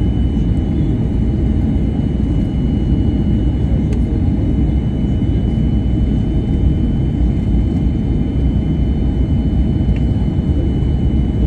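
Jet airliner's engines and airflow during landing: a steady low rumble with a thin, constant high whine over it.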